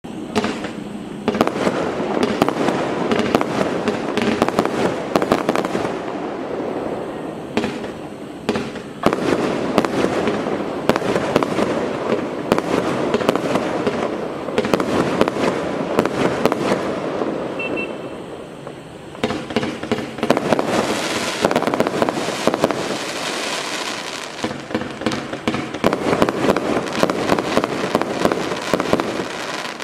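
A 50-shot consumer firework barrage cake (Celtic Fireworks Fire in the Hole) firing in rapid succession: a dense run of launch thumps and bursting shots that gets going about a second in, eases briefly a little past halfway, then picks up again.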